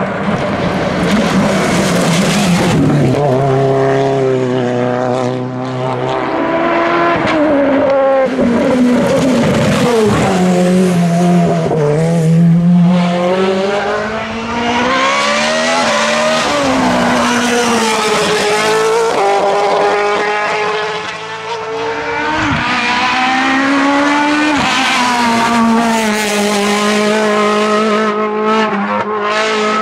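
Hillclimb race car engines at full attack, the pitch climbing hard and dropping again and again as they rev up through the gears and lift off for corners.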